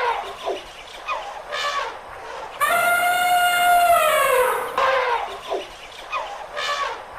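Elephant trumpeting: a long brassy call that holds its pitch and then falls, beginning about two and a half seconds in, with shorter calls before and after it.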